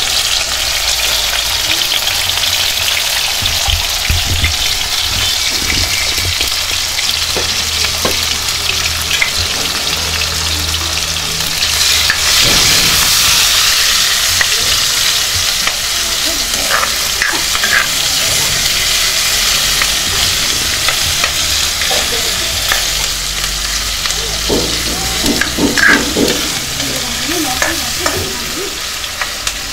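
Chopped vegetables sizzling steadily in hot oil in a hammered aluminium kadai, stirred and scraped with a metal ladle. The sizzle grows louder about twelve seconds in.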